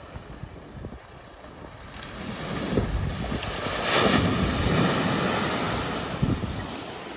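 A vehicle driving through a flooded ford: the rush of water thrown up by its wheels, building over a couple of seconds, loudest about four seconds in, then slowly easing off.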